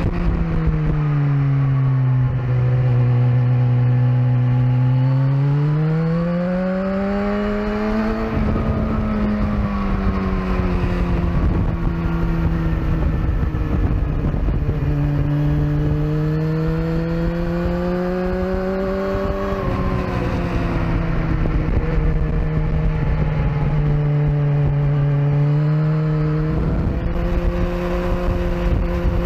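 Sportbike engine running hard on a race track, its pitch falling and rising several times as the rider accelerates and slows through corners, with wind rush on the microphone.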